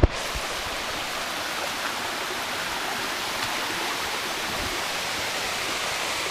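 Steady rushing of falling water from a small waterfall on a forest brook.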